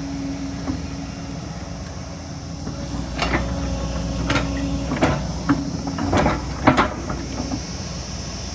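Excavator's diesel engine running steadily, with a series of sharp metallic knocks and squeaks from the working machine between about three and seven seconds in.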